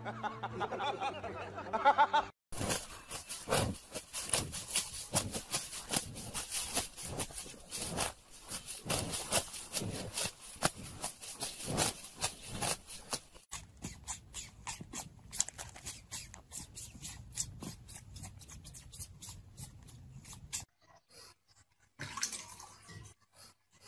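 A cow tearing and chewing grass close to the microphone: a fast, irregular run of crisp ripping and crunching sounds.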